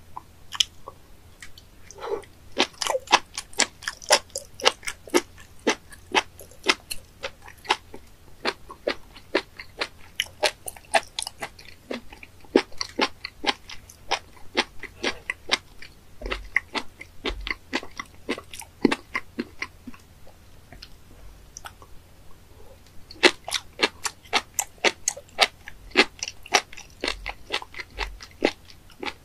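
Close-miked chewing of raw fat innkeeper worm (spoon worm, 'penis fish'), a fast run of crisp, crunchy crackles with a short lull about twenty seconds in.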